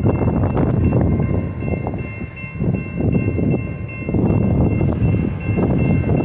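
Union Pacific local freight train rolling past at trackside, a dense steady rumble of cars on the rails with a faint high steady ringing over it, dipping briefly a couple of times.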